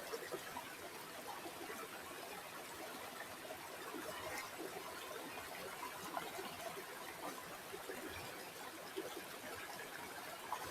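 River water flowing steadily, a fairly faint continuous trickle and babble with many small splashes.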